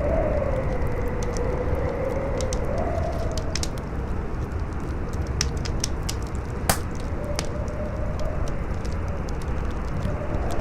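Campfire crackling with scattered sharp pops, one louder pop about two-thirds of the way through, over strong wind howling with a slowly wavering pitch.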